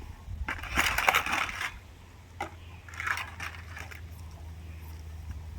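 Plates being washed by hand: scrubbing, scraping and clattering in three short bursts, the longest about a second in.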